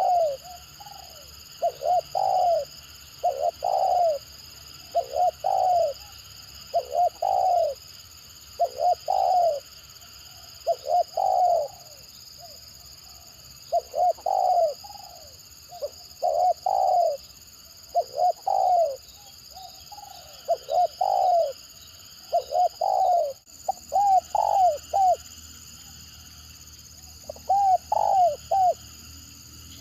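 Spotted dove cooing in the halting, stuttering style known as tekukur gagap: short, repeated multi-note coo phrases, one every second or two, with a pause near the end. A steady high-pitched drone runs underneath.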